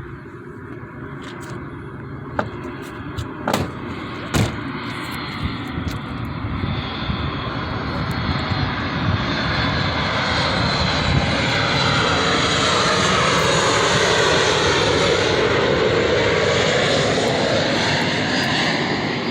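Airliner passing low overhead on its landing approach, its engine noise building steadily over about twelve seconds and then holding at a loud peak, with shifting pitch bands as it goes over. A few sharp clicks sound in the first few seconds.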